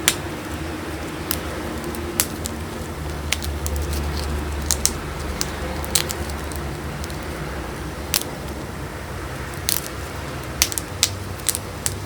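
Chunks of gym chalk being crushed between the fingers, giving sharp crisp crunches and snaps at irregular intervals, about a dozen over the stretch, some in quick pairs.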